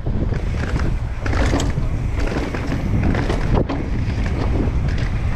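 Wind rushing over the microphone while a mountain bike rolls fast down a dirt and rock trail, with the tyres crunching and short knocks and rattles from the bike over the bumps.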